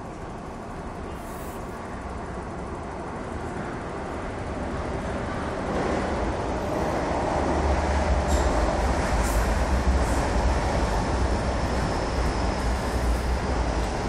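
Passenger train pulling into a station, its low rumble growing louder over the first half and staying heavy to the end, with a few brief high squeals and a faint steady whine later on.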